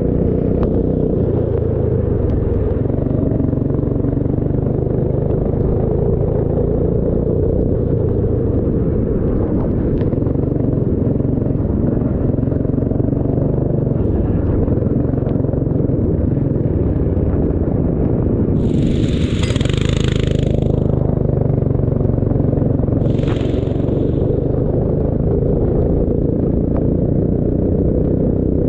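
Racing vehicle engine running steadily with a constant rumble. Two short rushing hisses come in about two-thirds of the way through, the second one briefer, some four seconds after the first.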